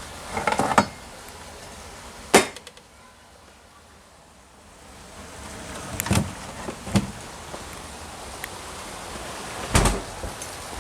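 A handful of sharp knocks and clatters at irregular intervals, the first a quick cluster, over a low steady hiss that fades for a couple of seconds and then swells again.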